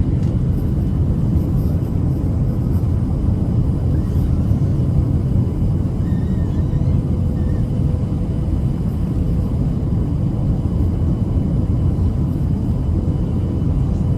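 Steady cabin noise of a Boeing 737-700 in flight: a low, even rumble of engines and airflow, with a faint steady hum in it.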